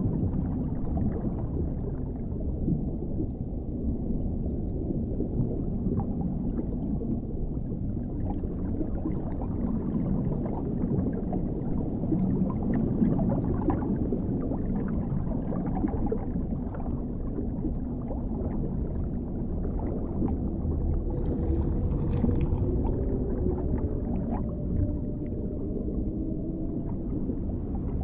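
Dark underwater ambience: a steady deep rumble with faint scattered clicks through it. About three-quarters of the way in, faint drawn-out tones waver in and out over the rumble.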